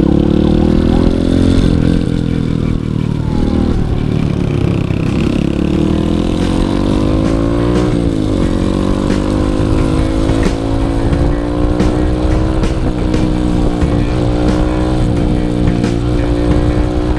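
Honda CRF150L's single-cylinder four-stroke engine running under way. Its pitch climbs steadily and drops at gear changes, most clearly about eight seconds in.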